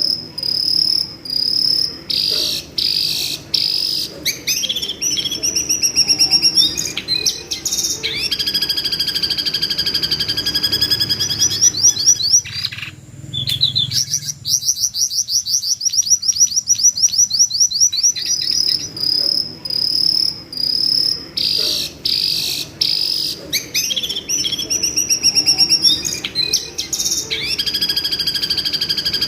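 Jongkangan bird screaming: fast runs of rapidly repeated shrill notes, each run lasting a second or more, following one after another with short breaks.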